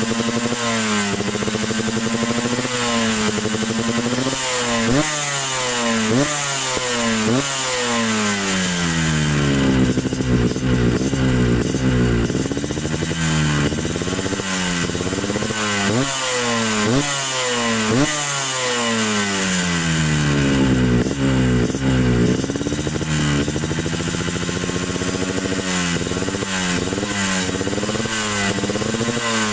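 Yamaha RX-King two-stroke single-cylinder engine breathing through an aftermarket 'standard racing' exhaust, revved again and again: the pitch climbs quickly and falls back to idle many times, sometimes in short blips, sometimes in longer pulls. The note is the crisp, rattly two-stroke exhaust sound the pipe is sold for.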